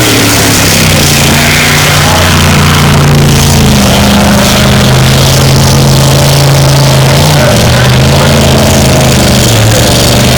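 Engine of a blown alcohol displacement race boat running hard at a steady high pitch, dipping briefly twice as it eases off and picks up again.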